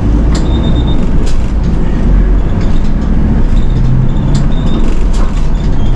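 City bus's diesel engine running and road rumble as the bus drives along, with scattered short clicks and rattles from the cabin.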